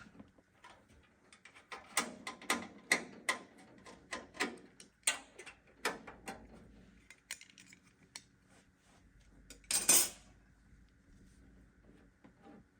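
Irregular clicks and clatter of small hard plastic and metal computer parts and cable plugs being handled during a PC build, with one louder scraping rustle about ten seconds in.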